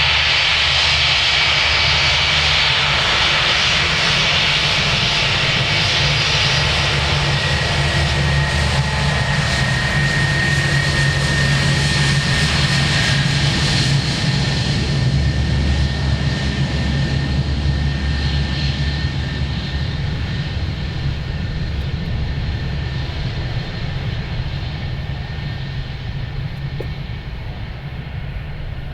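Jet airliner engines running loud, with a high whine and steady low rumble. The sound fades steadily over the second half as the aircraft draws away.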